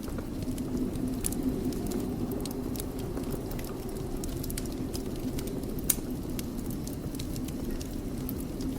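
Wood fire burning in a fireplace: a steady low rumble of flames with frequent small crackles and pops, one sharper pop about six seconds in.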